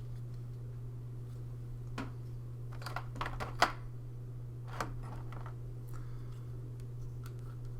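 Plastic board-game miniatures being handled and set down on a table: scattered light clicks and taps, a quick cluster about three seconds in ending in one sharper click, over a steady low hum.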